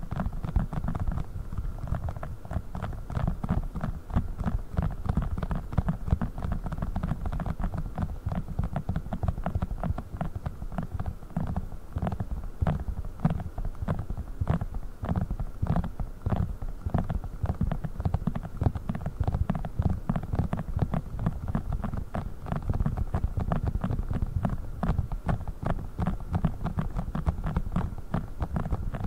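Fingers tapping rapidly and continuously on a silicone funnel: dense, dull taps with little sharpness.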